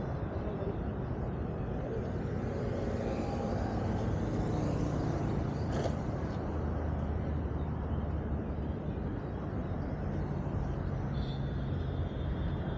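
Motorcycle engine running steadily with outdoor road noise, its low hum shifting slightly in pitch. A single short knock about six seconds in.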